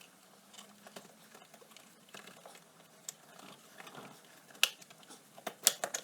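Scattered light clicks and taps of tools and small parts being handled while an ATV is dismantled, with a few sharp metallic knocks past the halfway point and near the end.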